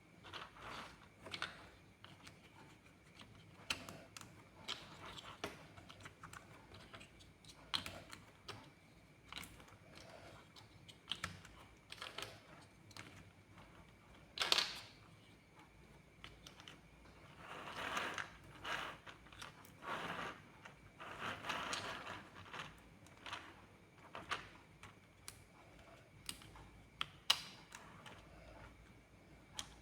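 Plastic building blocks clicking and snapping together in an irregular run of sharp taps, with a few longer rustles of pieces being handled.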